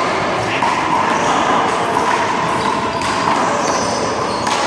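A rubber handball smacking against the wall and pavement during a one-wall handball rally: a few sharp slaps, the clearest near the end, over a steady background hiss.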